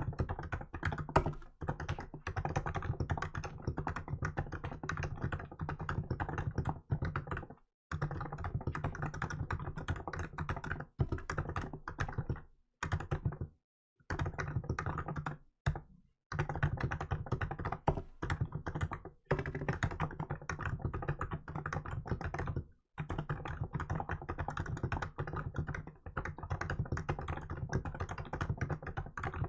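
Fast, continuous typing on a Hansung GK868B electrostatic capacitive keyboard fitted with milk keycaps. It is a dense run of keystrokes, broken a few times by pauses of under a second.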